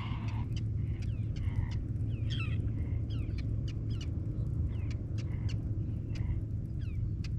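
Birds calling outdoors, a scatter of short falling chirps and clicks, over a steady low rumble.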